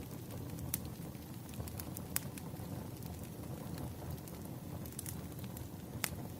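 Firewood burning: a steady low rumble of flames with scattered sharp pops and crackles. The loudest pop comes near the end.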